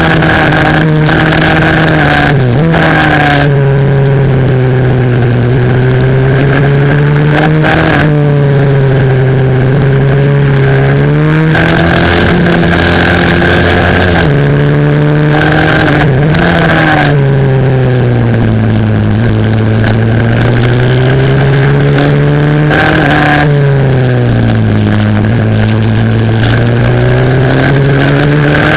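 Single-cylinder 140cc pit bike engine heard onboard during a race, revving hard, its pitch rising and falling several times as the bike accelerates and slows through the corners, with wind rushing past the microphone.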